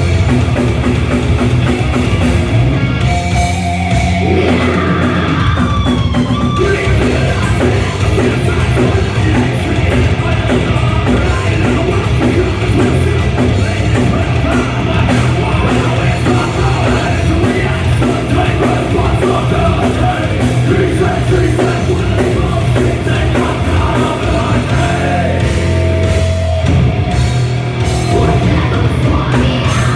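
Loud heavy rock music with drums and yelled vocals, playing continuously.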